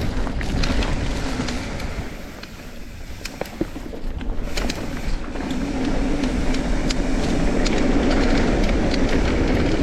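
Mountain bike rolling over a dirt trail: steady tyre and wind rumble with scattered rattling clicks, dipping briefly and then growing louder about halfway through as it picks up speed.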